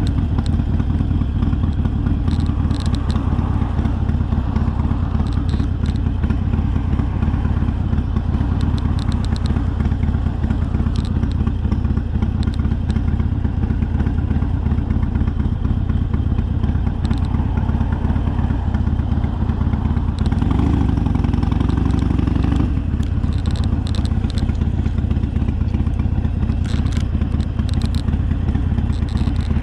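Harley-Davidson Sportster's air-cooled V-twin engine running steadily while the bike is ridden, its pitch shifting briefly about twenty seconds in.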